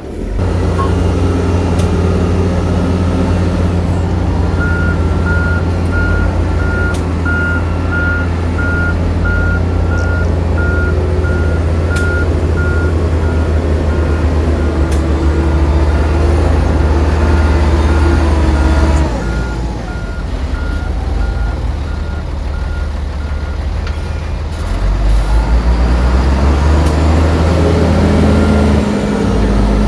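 Heavy diesel earthmoving machinery running, with a reversing alarm beeping at an even pace from about four seconds in until about twenty-four seconds. The engine drops back around nineteen seconds and revs up again near twenty-five seconds.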